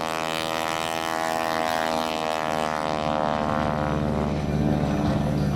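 Propeller biplane, a modified Grumman Ag-Cat (the Showcat), flying past with its engine and propeller making a steady drone whose pitch shifts slowly.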